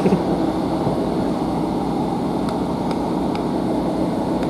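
Steady interior noise of a Northern Class 150 diesel multiple unit: the underfloor diesel engine running and the train's hum, with a few faint ticks about halfway through.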